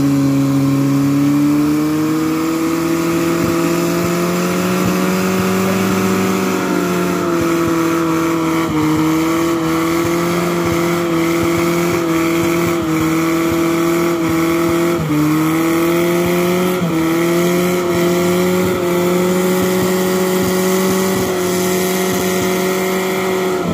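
Suzuki Katana 4x4's engine held at high revs under load as the vehicle creeps up a steep muddy bank: a steady drone whose pitch dips slightly a few times.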